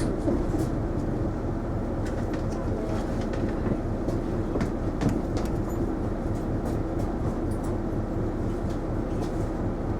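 Isuzu Erga non-step city bus running, heard from inside the cabin: steady engine and road rumble with a constant hum, and light, scattered rattles and clicks from the body and fittings.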